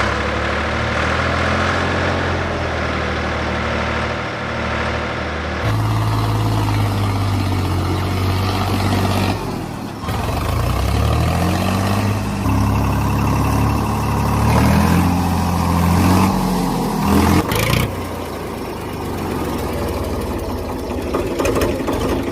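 Engine running, its pitch rising and falling as it revs, in several takes joined by sudden cuts.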